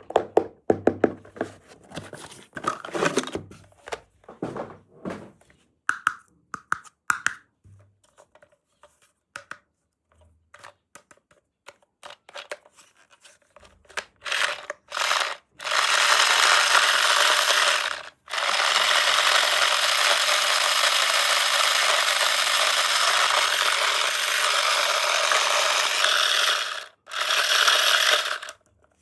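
Small plastic toy pieces clicking and knocking as they are handled, then a loud steady hiss that starts about halfway through and breaks off briefly twice.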